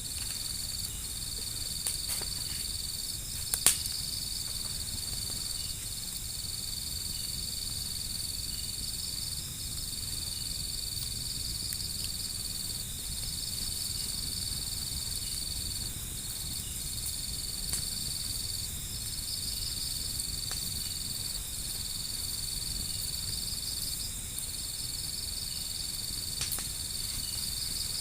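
Insects trilling steadily in a high, nearly unbroken tone, with a few sharp crackles from a fire, the loudest about four seconds in.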